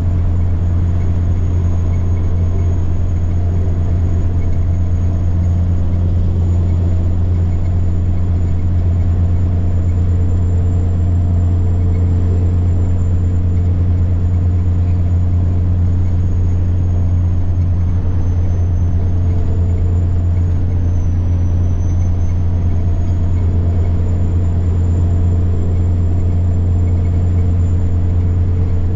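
Semi truck's diesel engine running steadily under way, a low drone with a thin high-pitched turbocharger whine above it; the whine dips briefly about two-thirds of the way through and rises back.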